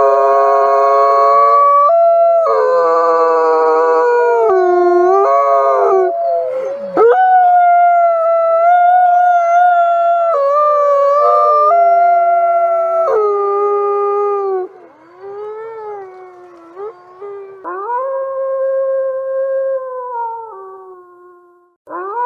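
A pack of wolves howling: several long howls overlap, each gliding up and down in pitch. About two-thirds in the howls turn quieter and shorter, then one more long howl rises near the end.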